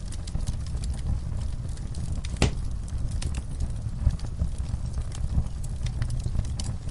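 Wood fire burning in a fireplace: a steady low rumble with scattered crackles and pops, one sharper pop about two and a half seconds in.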